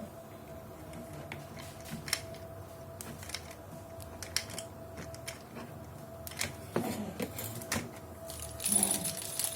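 Scattered light clicks and taps of things being handled, over a faint steady hum.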